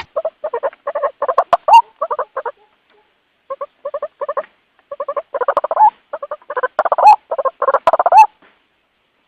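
White-breasted waterhen (ruak-ruak) calling in a rapid run of short repeated calls, about four a second. The calls break off for about a second near the three-second mark, then run on until shortly before the end. This is the lure call a waterhen uses to call its companions.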